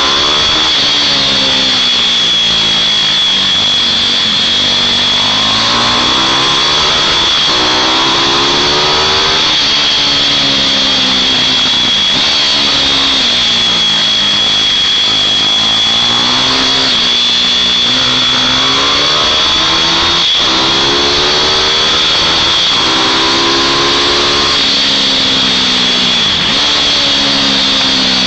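Small two-stroke mini bike engines racing, their pitch rising and falling again and again as they accelerate and brake around the track, several bikes at once, with a steady high whine under them.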